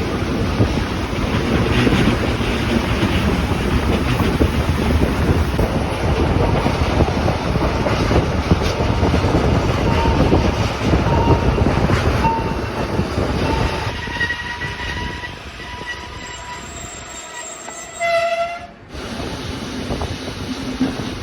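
Rhaetian Railway train running along the line: a steady rumble of wheels on rail, with thin wheel squeal starting about ten seconds in. Near the end there is a short horn blast, after which the running noise drops off sharply and continues more quietly.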